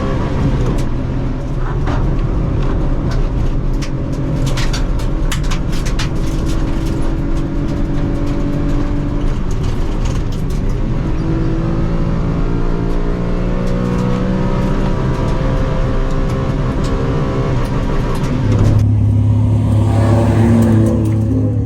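Car engine running while driving, its pitch rising and falling with the revs as it accelerates and eases off, with scattered sharp ticks. About 19 seconds in the sound changes abruptly to a steadier low hum.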